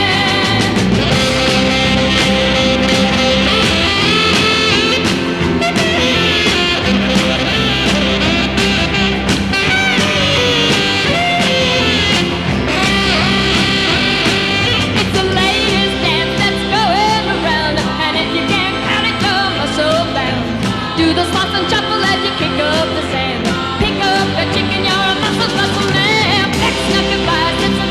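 A girl-group pop-soul record: women's voices singing over a rock-and-roll band with guitar.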